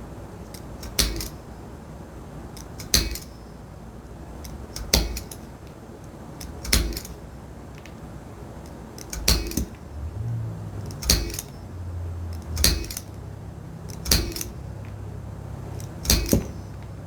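Holes being punched in leather for eyelets: nine sharp strikes, roughly one every two seconds.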